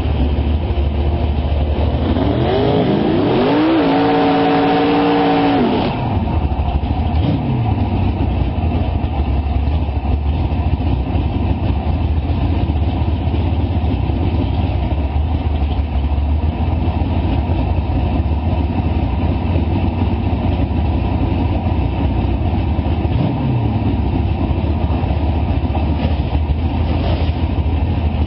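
Race car engine revved: the pitch climbs about two seconds in, holds high for about two seconds, then drops back to a steady idle, with two short throttle blips later on.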